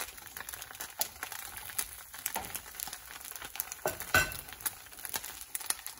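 Bánh xèo batter frying in an oiled pan, a fine crackling sizzle, the "xèo xèo" noise the dish is named for. A single sharper knock stands out about four seconds in.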